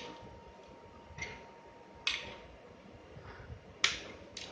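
Plastic Lego bricks being handled and pressed together: four short, sharp clicks at uneven intervals, the loudest a little before the end.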